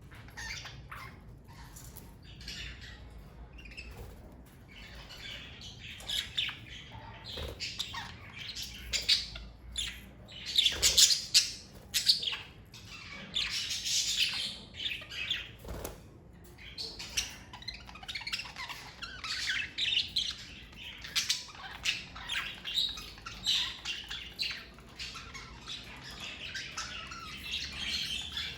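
A flock of budgerigars chirping and squawking in many short overlapping calls, sparse at first and much busier from about five seconds in.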